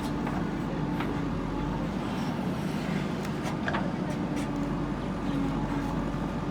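JCB backhoe loader's diesel engine running steadily at work, with a few faint knocks.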